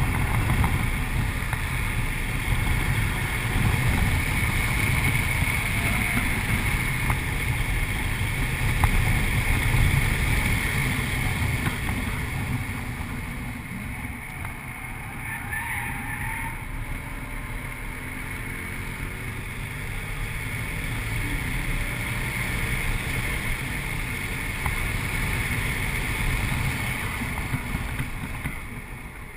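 2008 Audi RS4's 4.2-litre V8 running hard on a race track, heard inside the cabin together with road noise. It eases off about halfway through, builds again, and falls away just before the end.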